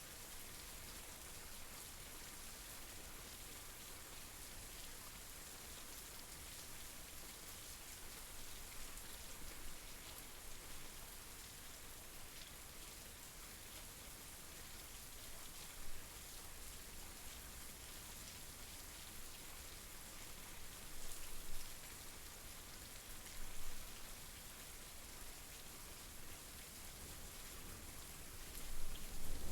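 Steady rain falling as an even hiss, with a few brief louder swells. A low rumble of thunder starts to build at the very end.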